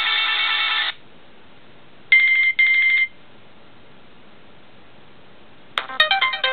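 Nokia 5220 ringtones playing. One tune cuts off about a second in, and a short double beep follows about a second later. Near the end a click comes and a new, busy melody with quick notes begins.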